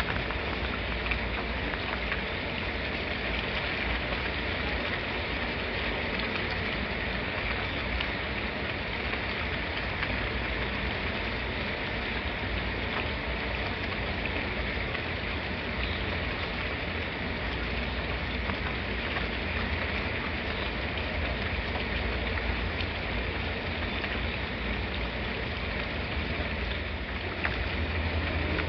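Steady, even rain falling, with a few separate drop ticks standing out from the hiss.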